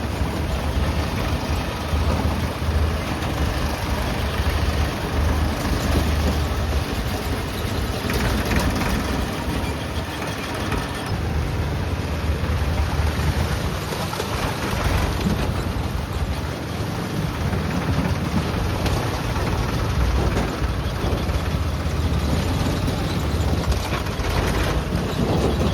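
Heavy diesel engines of earthmoving and haulage machinery running steadily, with a strong low hum and a constant din of mechanical noise.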